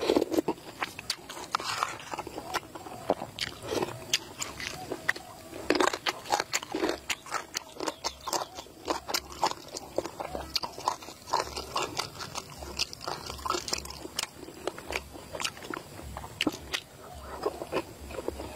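A person chewing a mouthful of boiled eggs in chilli sauce close to the microphone: many short, wet mouth clicks and smacks in an uneven stream.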